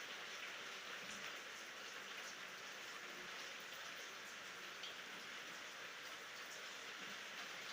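Steady rain falling, an even hiss with scattered drops pattering on a surface; no thunder.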